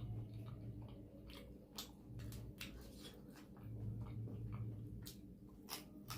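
Person chewing food close to the microphone, with frequent short, wet mouth clicks and smacks.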